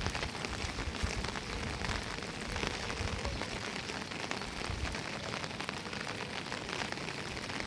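Heavy rain falling steadily, countless drops striking a surface. A low rumble underneath eases off about five seconds in.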